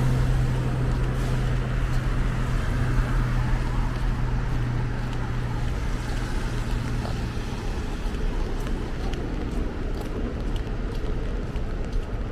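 A motor vehicle's engine hums steadily over continuous street noise, then fades away about two-thirds of the way through.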